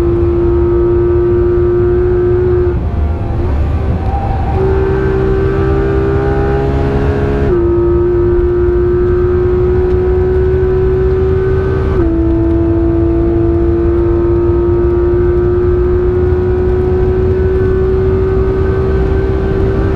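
The naturally aspirated 4.0-litre flat-six of a Porsche 991.2 GT3 RS, heard from inside the cabin, running at high revs with its pitch climbing slowly in the high gears. It eases off briefly about three seconds in, then comes back higher. Two upshifts, about eight and twelve seconds in, each drop the pitch suddenly.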